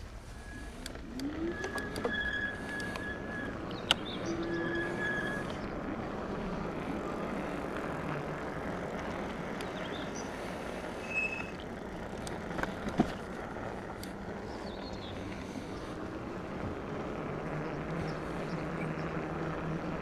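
E-bike being ridden: a steady rush of tyre and wind noise with a low hum and scattered sharp clicks and knocks from the bike.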